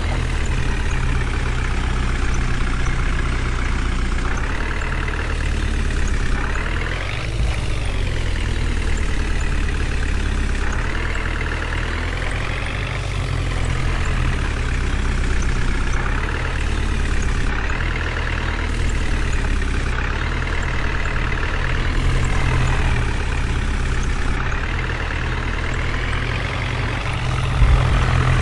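Heavy diesel engine of a JCB or loaded truck running continuously, its pitch rising and falling every few seconds as the engine speed changes under load. A short thump sounds near the end.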